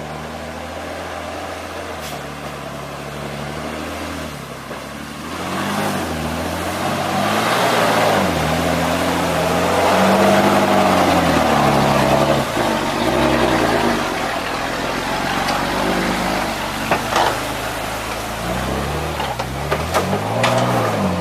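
A vehicle engine running and revving, its pitch rising and falling several times, with a rushing noise that builds about five seconds in. A few sharp clicks come near the end.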